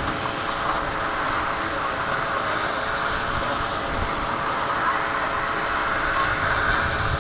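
Heavy rain falling steadily, with a steady hum underneath.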